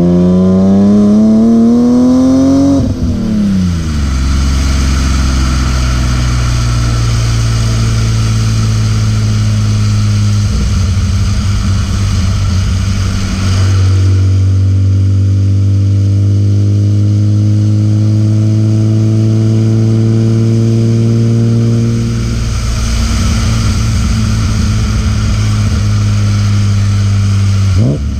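BMW E36 M3's S50B30 straight-six revving hard and climbing for the first three seconds, then dropping sharply. It holds steady revs for about ten seconds, then climbs slowly for another eight or so. The revs dip again about 22 seconds in, with a short sharp rise right at the end.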